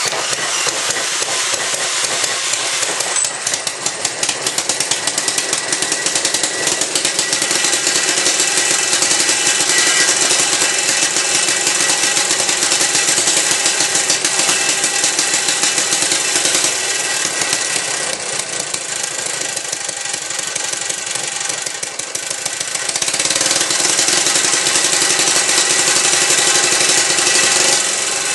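Antique Ironhorse single-cylinder small gas engine running on its own with fast, even firing. About three-quarters of the way through it dips briefly, then runs a little faster and louder.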